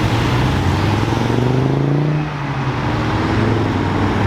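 A car engine accelerating away under throttle, its pitch rising, then dipping briefly about two seconds in as it changes gear before climbing again.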